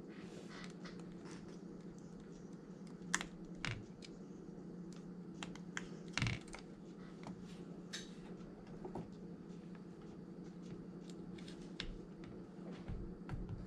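Irregular light clicks and taps from small parts and tools being handled on a phone-repair bench, over a steady low hum.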